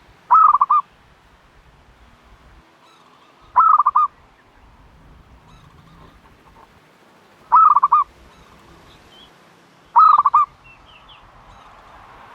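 Turtle dove calling four times, a few seconds apart, each call a short, loud run of three or four quick warbling notes.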